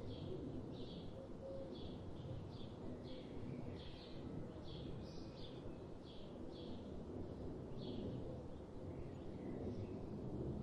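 A bird repeating a short, high chirp about once or twice a second, over a steady low rumble of forest background noise.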